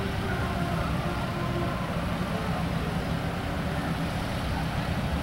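Tractor engine running at low speed, a steady low rumble.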